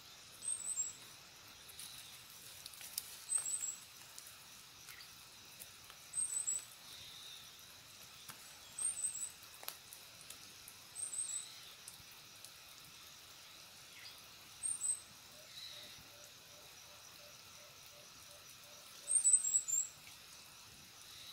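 A small bird calling: short, high-pitched chirps of three or four quick falling notes, given seven times every few seconds, the loudest near the end.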